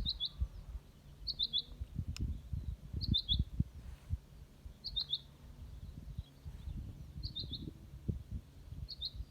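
A small songbird repeats a short phrase of three or four quick high notes about every one and a half to two seconds, six times over. Wind buffets the microphone underneath in low, irregular rumbles.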